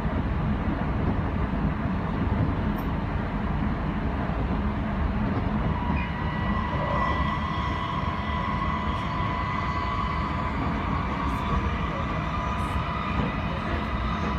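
Odakyu 3000 series electric train running, heard from inside the passenger car: a steady rumble of wheels on rail, joined about halfway through by a steady whine that holds to the end.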